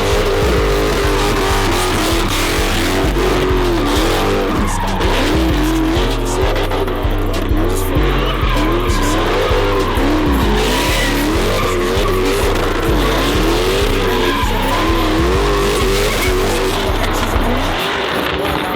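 A car drifting with its engine revving up and down over and over and its tyres squealing, over music with a deep bass line.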